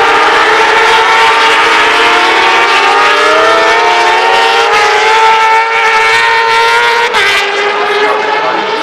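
Several Moto2 racing motorcycles' 600 cc four-cylinder engines at high revs, their pitches rising and falling together as they brake and accelerate. About seven seconds in there is a short click and the sound turns thinner and a little quieter.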